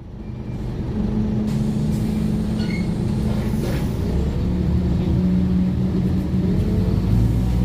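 Scania OmniCity N230UD double-decker bus's five-cylinder diesel engine running steadily, fading in at the start, with a few short high-pitched tones about three seconds in.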